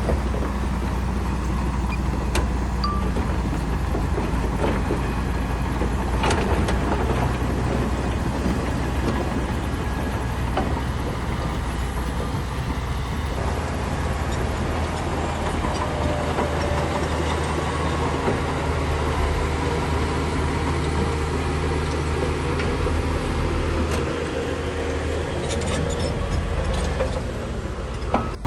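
Heavy diesel engine of a bulldozer running steadily, with a few short clanks.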